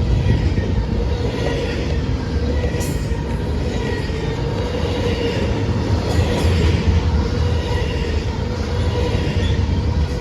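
Train rolling past: a steady, loud low rumble of wheels on the rails, with a faint thin squeal held throughout.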